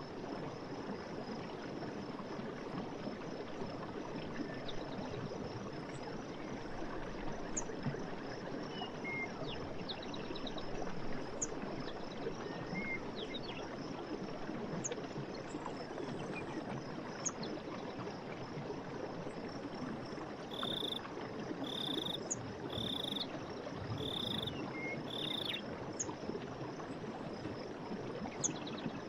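Running water rushing steadily, with scattered short bird chirps and, about two-thirds of the way through, a run of five short calls about a second apart.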